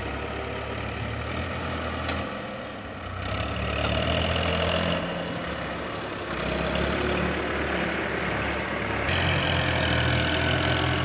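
Heavy diesel engine running, its pitch and loudness stepping up and down every couple of seconds.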